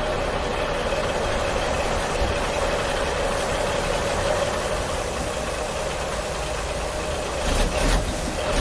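Toy monster truck driving along, a steady motor-like hum over a low rumble.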